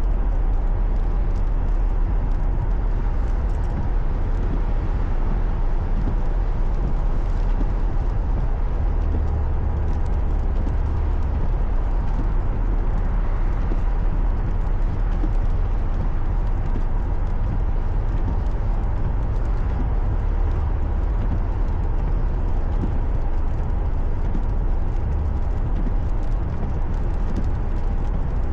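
Steady low rumble of a car driving, the road and engine noise heard from inside the cabin through a dashcam.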